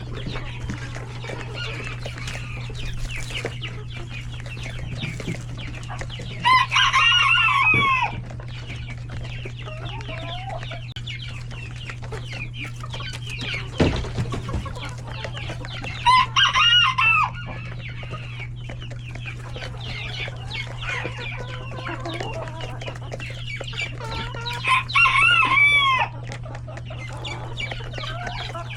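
A flock of chickens clucking steadily, with a rooster crowing three times, about eight seconds apart; each crow lasts about a second and a half and is the loudest sound.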